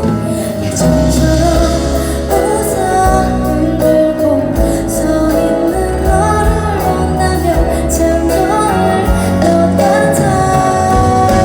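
A female vocalist sings live over band accompaniment, her voice gliding between held notes over a steady low backing.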